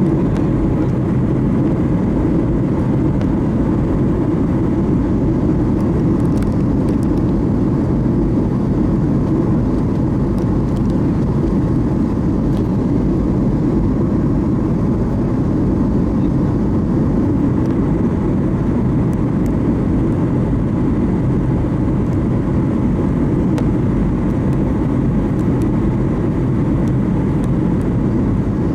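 Steady cabin noise of an airliner in flight: engine and airflow drone, low-pitched and unchanging, heard from inside the passenger cabin.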